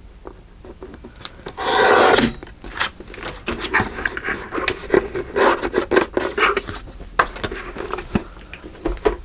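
Paper being handled and shuffled on a craft table. About two seconds in there is one loud rustle, followed by a run of small rubs, scrapes and taps.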